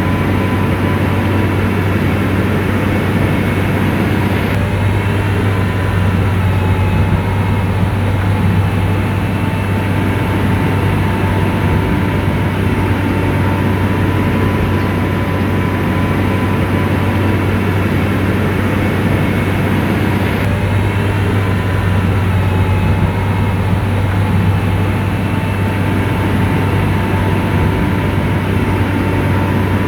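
SDLG motor grader's diesel engine running steadily under load, with a deep even hum and a thin steady whine above it.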